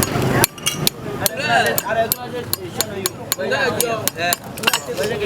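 Hammer tapping on metal: a dozen or so sharp, irregularly spaced blows, with people talking in the background.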